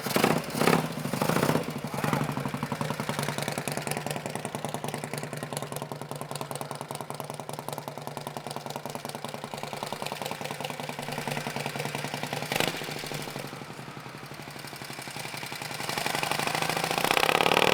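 Harley-Davidson Panhead overhead-valve V-twin running with a steady beat, with a few quick throttle blips near the start and a sharp click about twelve seconds in. It revs up louder near the end. The engine is freshly revived after decades unused and running healthy.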